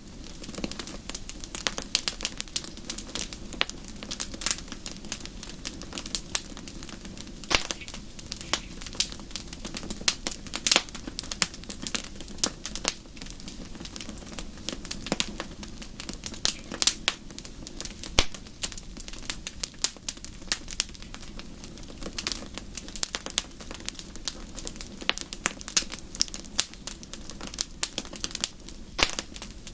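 Wood fire crackling in a fireplace: irregular sharp pops and snaps over a low, steady rush of flame.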